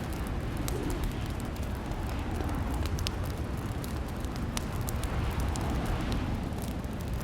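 Fireplace crackling: irregular sharp pops and snaps over a steady low rumble of the burning fire.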